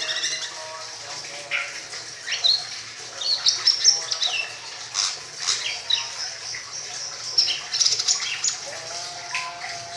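A songbird sings a busy, varied run of sharp chirps, whistles and quick rising and falling notes, some high and some lower and warbled. It is a masteran tutor song, meant to be copied by white-rumped shamas and to set a silent greater green leafbird singing.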